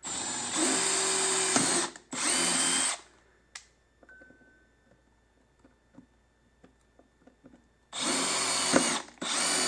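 Electric drill running in short bursts as it bores a hole through a motorcycle saddlebag for an amplifier connector: two bursts at the start, a pause of about five seconds, then two more near the end.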